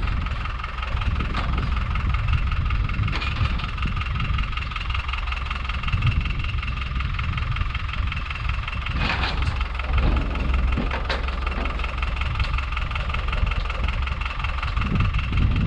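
A vehicle engine running steadily with a low rumble, with a couple of sharp knocks about nine and eleven seconds in.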